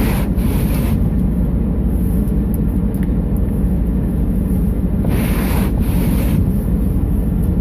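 GMC Envoy SUV running in four-wheel drive low, heard from inside the cabin as a steady low rumble, with two brief hissing swells near the start and about five seconds in.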